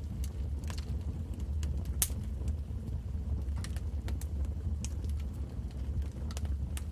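Wood fire burning in a fireplace: a steady low rumble of the flames with irregular sharp crackles and pops, one louder pop about two seconds in.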